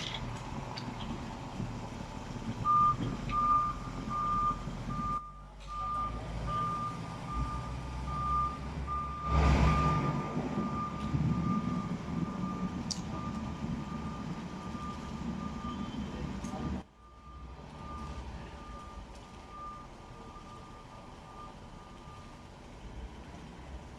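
A dump truck's backup alarm beeps steadily, about one and a half to two beeps a second, over the low running of its engine. There is a loud burst of noise around nine to ten seconds in.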